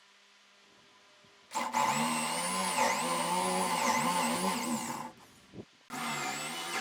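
Electric power tool motor starting about a second and a half in and running loudly, its pitch dipping and recovering again and again as it is loaded. It cuts out briefly near the end and starts up again.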